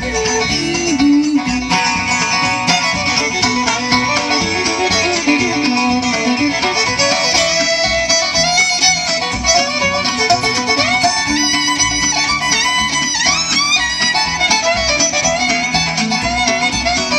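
Bluegrass band playing an instrumental break: a fiddle takes the lead with sliding melodic runs over a steady guitar rhythm.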